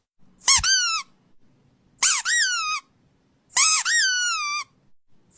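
A pet's high-pitched squeaking cries, three short bursts of two or three squeaks each. Each squeak rises and then falls in pitch.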